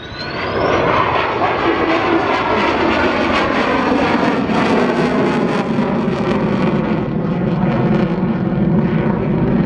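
Fixed-wing display aircraft's engines running at high power as it powers away after a dirty roll. A high whine rises over the first second, then the engine noise holds steady.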